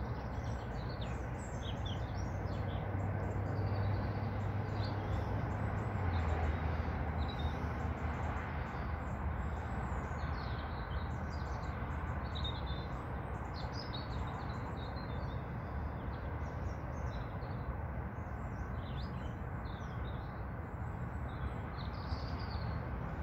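Small songbirds chirping and calling in quick, scattered bursts, over a steady low background noise.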